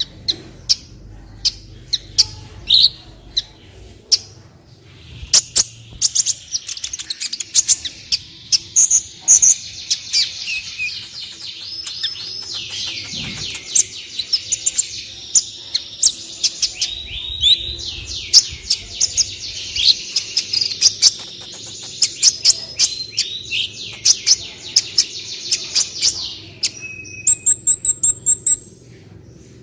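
Kolibri ninja, a sunbird, singing a fast, continuous twittering song of rapid trills and sharp high ticks, ending in a quick run of high repeated notes. It is played as a tutor recording for training cage birds.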